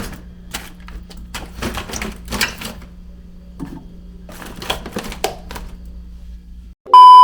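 Scattered light clicks and clatter over a steady low hum, then a short gap and, near the end, a brief, very loud, steady electronic beep that cuts off sharply.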